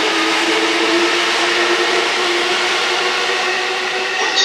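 Electric commuter train noise: a steady rushing sound with a low, even hum.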